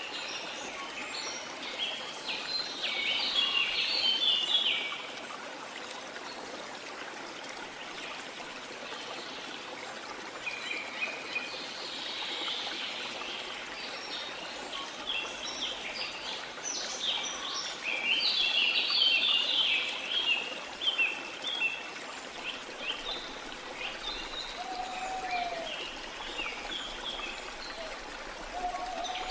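Steady rush of a waterfall with bouts of quick, twittering bird song over it, a few seconds in, around the middle and again near the end. Near the end two short, lower arched calls are heard.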